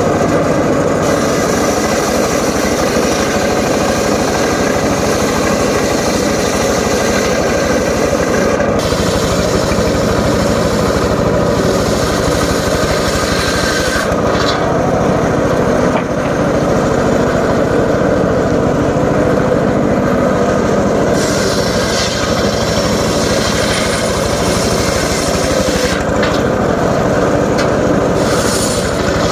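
Engine-driven homemade circular saw running steadily while its blade cuts johar wood. The high cutting noise comes and goes several times as pieces are fed through and finished, over a constant engine drone.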